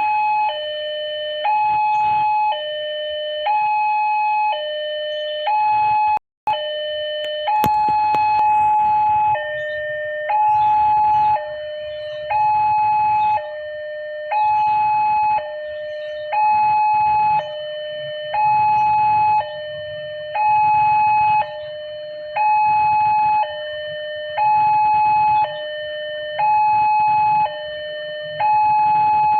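Railroad level-crossing warning alarm sounding, an electronic two-tone signal that alternates a high and a low tone about once a second, warning that a train is approaching. It cuts out briefly about six seconds in.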